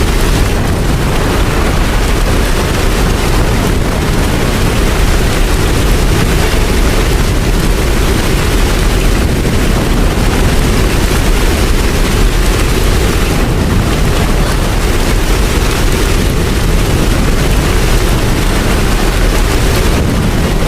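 Steady, heavy rain: a dense, even hiss with a strong low rumble beneath it.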